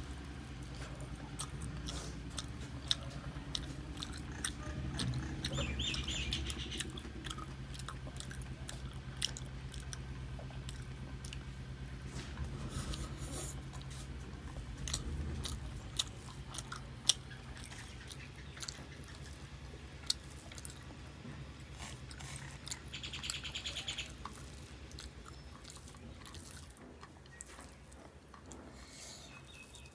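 Close-up eating sounds: chewing with wet mouth clicks and smacks as rice and curry are eaten by hand, over a steady low hum. A short burst of high chirping comes twice.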